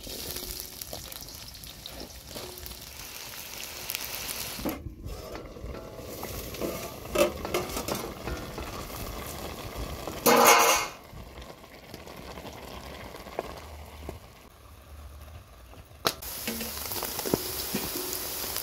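Chopped onions sizzling and frying in hot oil in a large aluminium pan, with stirring. There is a brief loud clatter about halfway through.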